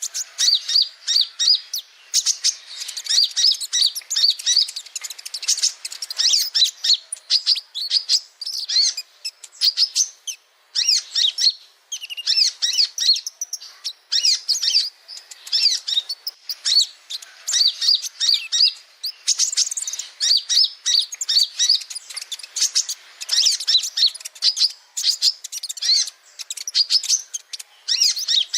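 Male olive-backed sunbird (kolibri ninja) singing: phrases of rapid, high chirps with short breaks between them.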